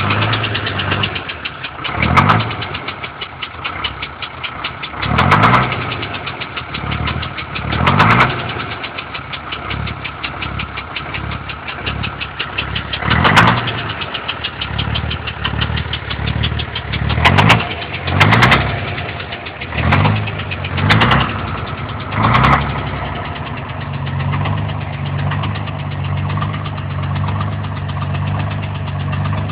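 Volvo TL389 diesel engine running just after a cold start, a rapid even clatter with about ten brief loud surges over the first twenty seconds or so. It settles into a smoother, steady idle in the last few seconds.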